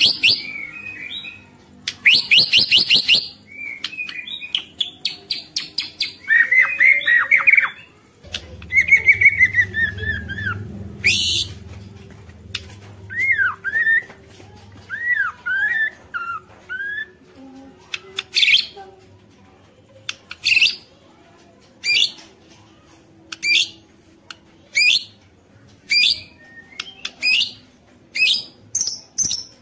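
White-rumped shama (murai batu) singing a varied song: fast trills and whistled, sliding phrases, giving way in the second half to a run of short, sharp notes about one a second.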